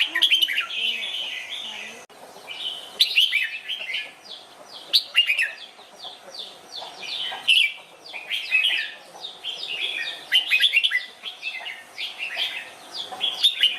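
Red-whiskered bulbul singing: runs of quick, bright chirping phrases broken by short pauses.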